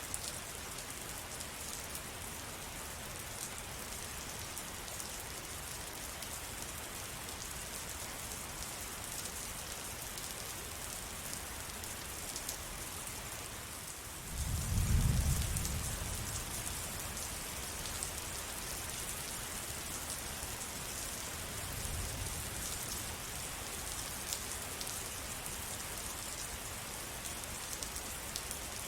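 Steady rain falling, with the fine ticks of individual drops. About halfway through, a low rumble swells and fades over a couple of seconds, the loudest moment, and a weaker one follows some seconds later.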